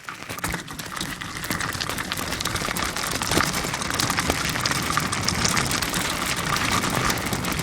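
Crackling rush of noise from riding a bicycle, with many small clicks through it, starting suddenly and growing louder over the first three seconds.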